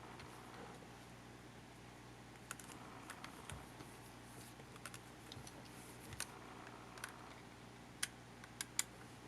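Scattered small clicks and taps of plastic parts and small tools being handled while a camcorder is taken apart, with a few sharper clicks near the end, over a faint steady hum.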